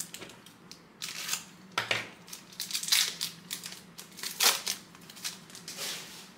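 A trading-card pack wrapper being torn open and crinkled: a series of irregular crackling rustles, loudest about three seconds in and again past four seconds.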